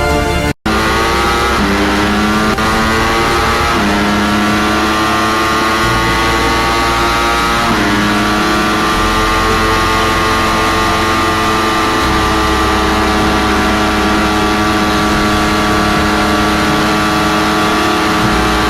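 A 250cc sport motorcycle engine accelerating hard through the gears: its pitch climbs, drops sharply at gear changes about four and eight seconds in, then holds high and nearly steady. A brief break in the sound just after the start.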